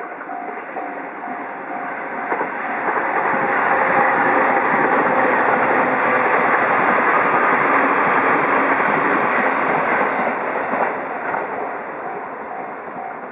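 JR Uchibo Line train passing over a level crossing, building to a loud peak in the middle and then fading. The crossing's warning bell rings in even dings about twice a second; it is drowned out while the train is loudest and heard again near the end.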